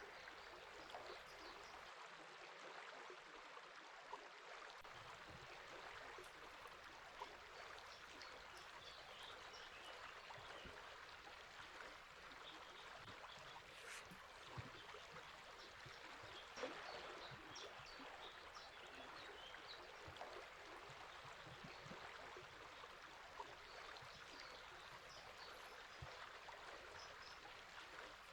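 Faint steady rush of flowing river water, with faint, scattered bird chirps.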